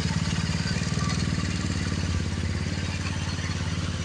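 Engine of a Roketa 180cc running steadily with an even, rapid pulse, easing slightly about halfway through.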